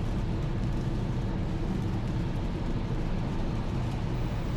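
A car driving along at a steady pace: an even, low rumble of engine and tyre noise, with no change through the stretch.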